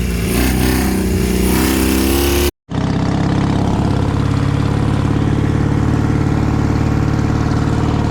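Vehicle engine running with shifting revs, cut off abruptly by an edit about two and a half seconds in, then a steady engine note.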